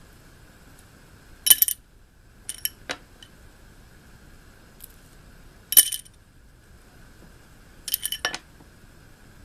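Small toy rings from a ring-toss toy clinking and clattering as a cockatiel handles them: four short bursts of bright, jingling clinks, at about one and a half, three, six and eight seconds in.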